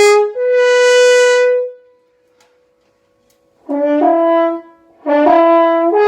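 French horn played loud in a slurred legato study: a held note, then about two seconds of silence, then short groups of slurred notes stepping upward.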